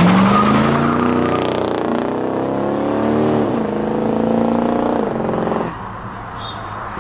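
A high-performance car accelerating hard away. Its engine note climbs as it revs, drops sharply at an upshift about three and a half seconds in, climbs again and shifts once more near five seconds, then falls away.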